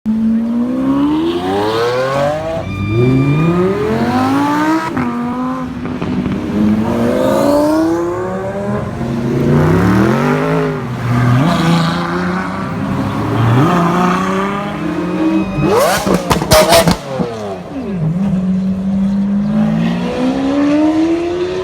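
Supercar exhausts running loud: engines revving and accelerating again and again, the pitch climbing through each gear and dropping as cars go past. About sixteen seconds in there is a quick burst of sharp cracks, the loudest moment.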